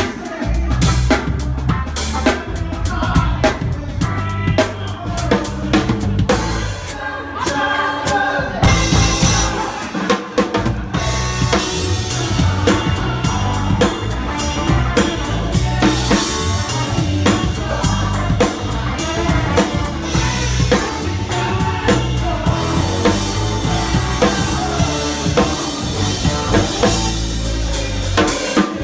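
Live band music with the drum kit loud and close: kick drum and snare keep a driving beat under the band, and the low end drops out briefly about seven seconds in before the full band comes back.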